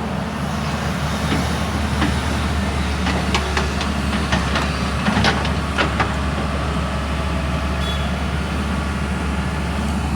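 A heavy vehicle engine running steadily under sand loading into a truck, with scattered clanks and knocks of material striking metal, clustered over the first half.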